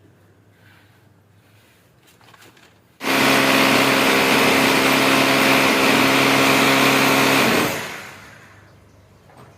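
An electric motor-driven tool or machine starts abruptly about three seconds in, runs loud and steady with a hum and a strong hiss for about four and a half seconds, then winds down and fades out.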